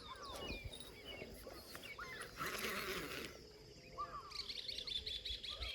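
Birds chirping and calling, with many short high calls. About four seconds in, a denser run of rapid repeated high notes starts.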